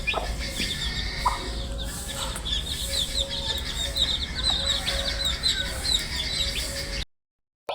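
Baby chicks peeping continuously, many short high chirps overlapping, over a steady low hum. The sound cuts out completely for about half a second near the end.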